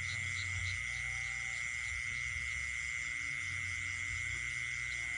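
Night chorus of insects and frogs: one steady, unbroken high trill dominates, with a quicker pulsed chirping of about three chirps a second over it at the start and again near the end, and a low rumble underneath.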